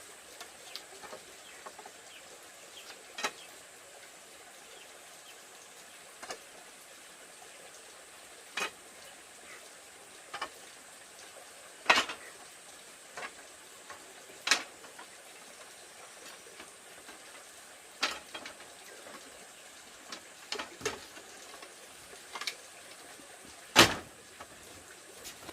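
Scattered short, sharp clicks and knocks, about a dozen at irregular intervals, two of them much louder, over a steady faint high hiss.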